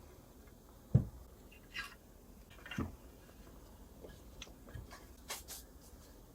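Scattered handling knocks and clicks. The loudest is a dull thump about a second in, followed by a lighter click, a second knock just before three seconds, and a few faint ticks after that.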